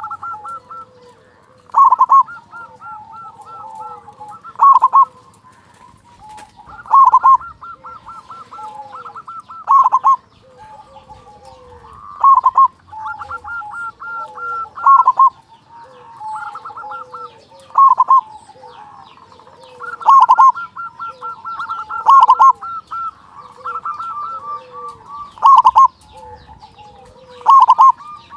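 Zebra doves (perkutut) cooing: a loud, full coo repeats about every two and a half seconds, with softer trilling coos from other doves between.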